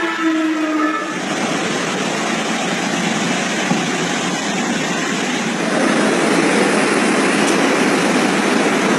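Overflowing Gier river in flood, its water rushing in a steady, loud torrent. In the first second a long, slightly falling horn tone fades out.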